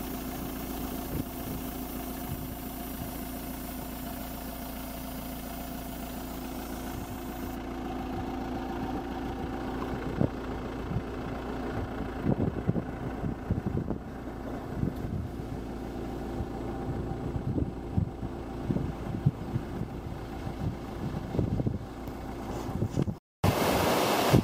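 A vehicle engine idling with a steady hum, under a high hiss that stops abruptly about eight seconds in. Irregular gusts of wind then hit the microphone. Near the end, after a short break, surf and wind come in louder.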